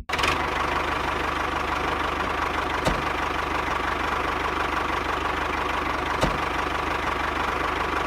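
An engine or motor running steadily at idle, with a single short knock about three seconds in and another about six seconds in.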